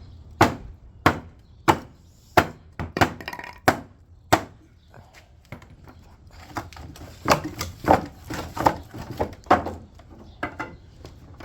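A run of sharp knocks or taps on something hard, about one and a half a second for the first four seconds or so, then a looser, irregular cluster of knocks a few seconds later.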